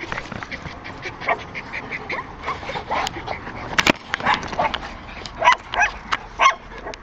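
Litter of young puppies yipping and whimpering in many short, high calls, with one sharp click about four seconds in.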